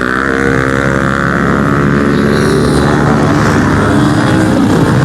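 Several pit bike engines running at race pace, their pitch rising and falling with the throttle.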